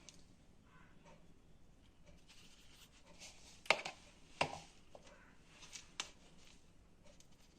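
A few scattered, sharp knocks and clicks of kitchen utensils on a work surface during food preparation, two louder ones about halfway through.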